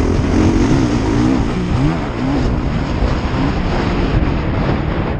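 Motocross bike engine on the track, its pitch rising and falling several times as the throttle opens and closes, fading into the general rumble after about three and a half seconds.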